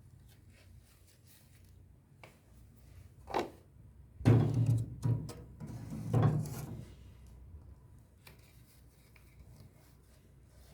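Kitchen handling sounds: a sharp knock, then two louder bouts of thuds and rattling about four and six seconds in, as things are picked up and set down on a hard surface.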